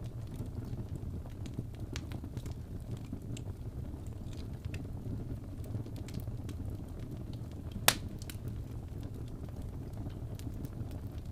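Fire burning in a fireplace: a steady low rumble with scattered small crackles, and one loud sharp pop a little after two-thirds of the way through.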